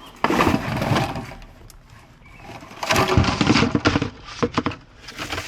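Golf clubs clattering and rustling in an old golf bag as it is rummaged through, in two noisy spells, with a few sharp knocks near the end.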